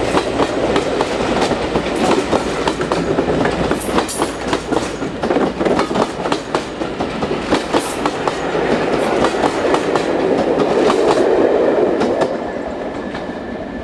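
Train carriages rolling past close by, their wheels clattering over the rail joints in a quick run of clicks; the noise drops away near the end.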